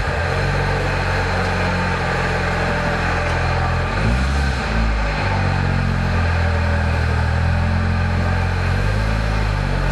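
A car's newly fitted engine running steadily as the car drives slowly under its own power, its first drive since the engine swap. The engine note shifts briefly about four seconds in, then settles again.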